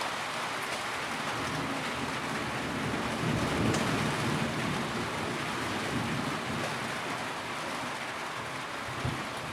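Steady rain falling, an even hiss of water. A low rumble swells about three to four seconds in, and there is a short low thump near the end.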